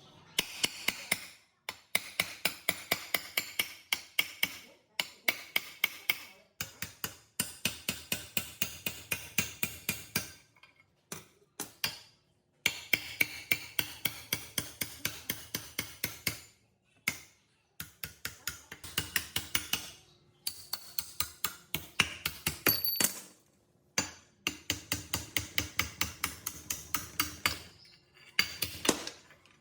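Rapid hammer blows on metal, about five a second, in runs of several seconds with short pauses between them.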